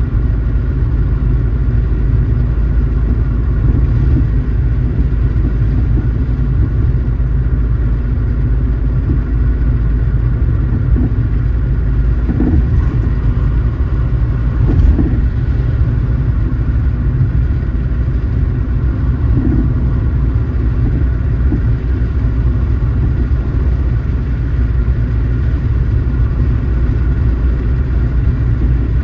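A car driving at steady speed: continuous low engine and road rumble, with a few faint knocks from the road.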